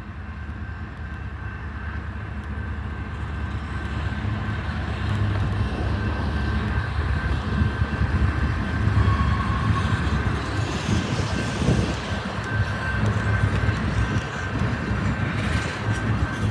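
Freight train cars rolling past, a low rumble that grows louder over the first several seconds and then holds steady, with a thin high steady whine over it.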